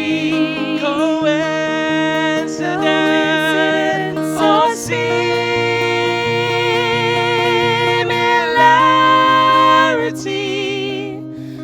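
Song with held, wavering sung notes over a steadily plucked guitar and a stepping bass line.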